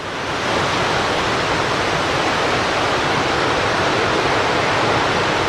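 Victoria Falls' falling water heard as a steady, even rushing noise.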